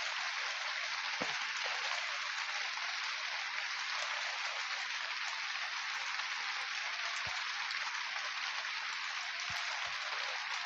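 Steady rain pattering on a tent, an even hiss throughout, with a few faint knocks of drops or drips.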